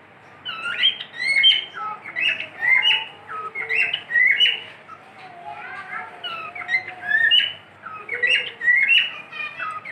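Pet cockatiel whistling a quick series of short chirping notes, about two a second, many of them stepping or sliding in pitch.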